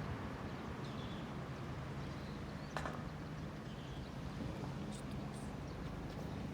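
A steady low hum over faint outdoor background noise, with one sharp click near the middle.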